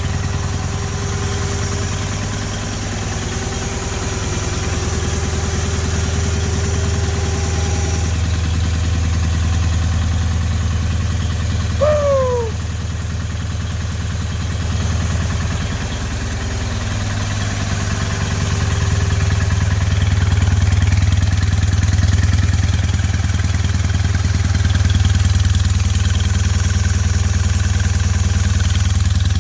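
Onan NHC engine of a Gehl 2500 skid steer running steadily after a very cold start, with a few gentle swells in engine speed; its cylinder 1 has little compression, its intake valve seat coming loose. A brief falling squeal about twelve seconds in.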